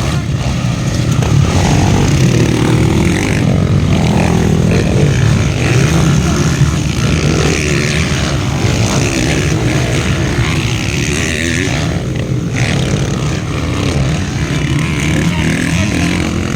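Several motocross bikes racing, engines revving up and down continuously.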